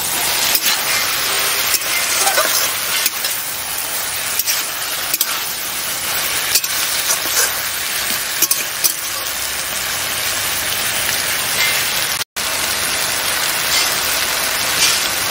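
Taro (kochu) strips and prawns sizzling in hot oil in a metal wok, a steady frying hiss with scattered clicks of stirring. The sound breaks off for a moment about twelve seconds in.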